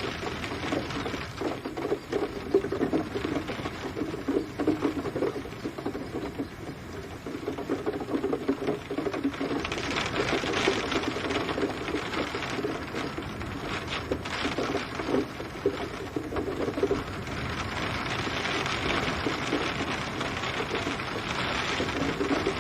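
Rain pattering: a steady, dense ticking of drops. A higher hiss of rain swells in about ten seconds in and again toward the end.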